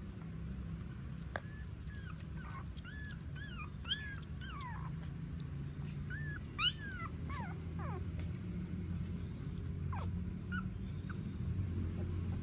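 Young puppies whimpering in short, high, rising-and-falling squeaks, many in quick succession through the first half, the sharpest one a little past the middle, then a few more later. A steady low hum runs underneath.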